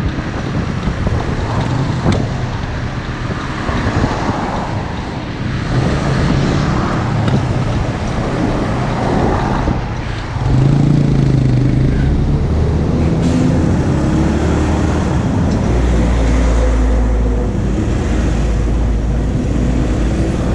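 Motorcycle engine running while riding, with wind buffeting the microphone. About halfway through, the engine note steps up louder and then holds steady, with a heavier low rumble near the end.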